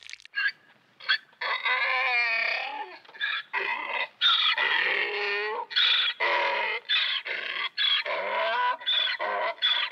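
Donkey braying: a long run of hee-haw calls one after another, starting about a second in.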